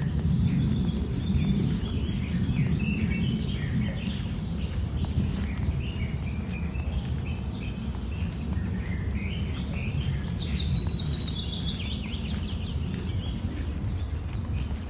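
Birds chirping and singing over a steady low rumble, with a louder, rising, warbling call from about nine seconds in that lasts a few seconds.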